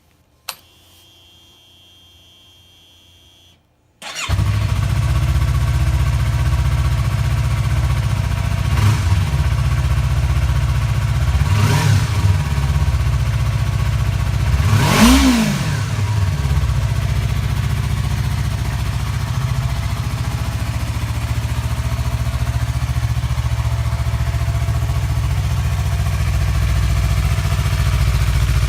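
Yamaha MT-25's parallel-twin engine breathing through an aftermarket Powerbox muffler: a click and a few seconds of faint whine, then the engine starts about four seconds in and idles. It is blipped three times, the third rev the highest, and settles back to a steady idle.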